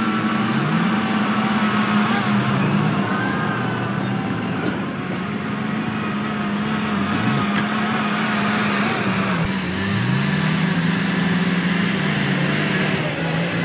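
Heavy diesel engine of an earthmoving machine working under load, its pitch rising and falling repeatedly as the throttle changes.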